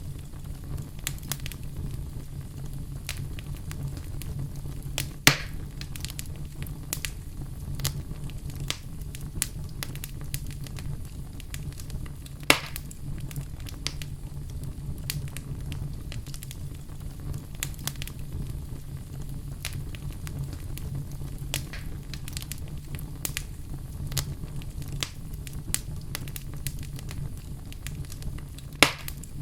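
Fire burning in a fireplace: a steady low rumble of flames under a constant run of small crackles, with three louder pops about five, twelve and twenty-nine seconds in.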